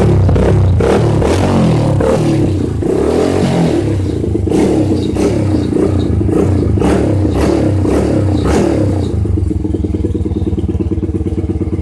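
A 100cc dirt bike engine running through an open exhaust with the baffle removed, straight-piped, blipped repeatedly on the throttle. About three-quarters of the way through it settles to a steady idle.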